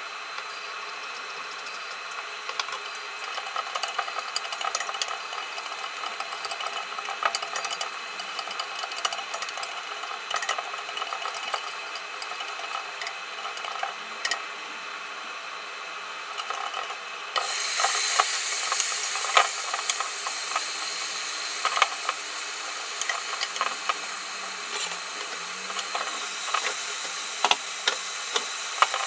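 Home cooking: utensils clicking and knocking against pans over a steady background hum, then about two-thirds through a loud sizzling hiss sets in suddenly and keeps going, with more clinks over it.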